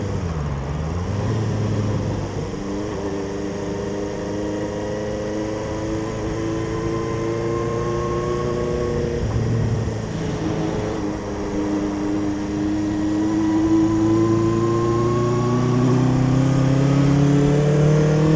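1976 Honda CB400 Four Super Sport's air-cooled inline-four engine running under way, heard from on the bike. The engine note dips briefly near the start and holds steady, drops about nine seconds in, then climbs steadily as the bike accelerates.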